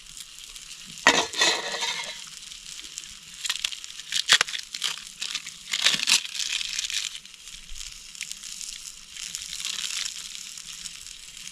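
Crinkling and crunching handling noises with a few sharp clicks, about a second, four seconds and six seconds in, over a steady faint hiss.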